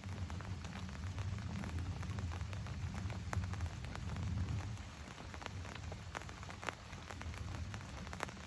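Steady rain falling, with scattered sharper drops ticking.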